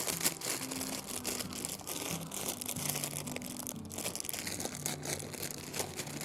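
Dense, irregular crackling and crinkling over soft background music with slow, held low notes.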